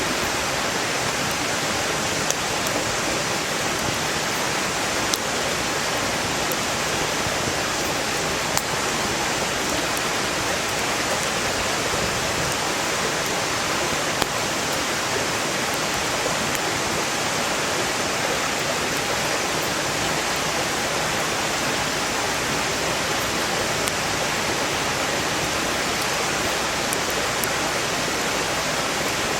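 Mountain stream rushing in a steady, loud wash, with a few sharp crackles and pops from burning firewood scattered through it.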